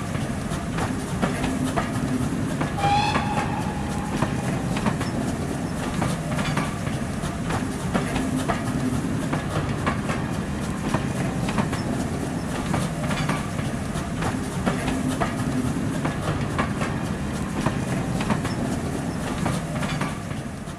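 A train rolling past, its wheels clicking over rail joints in a repeated clatter over a steady rumble. A short whistle sounds about three seconds in.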